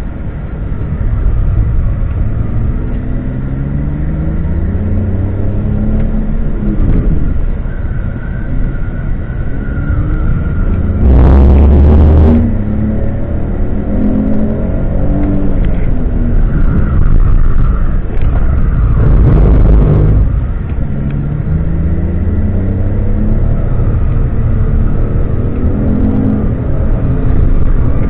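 BMW E46 330Ci's straight-six engine under hard track driving, heard from inside the cabin. Its pitch climbs and drops again and again through gear changes and braking. There are two loud bursts of noise about eleven and nineteen seconds in.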